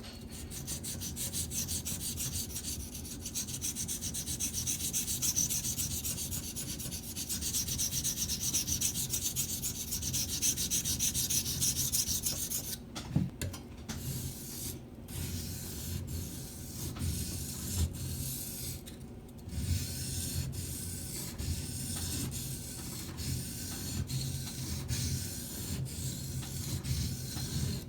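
Steel knife blade scraping on a Shapton Pro 320-grit waterstone in sweeping sharpening strokes, the blade swept along the stone to reach the whole recurved tanto edge. For about the first thirteen seconds the strokes come fast and continuous; after that they slow to separate strokes about a second apart.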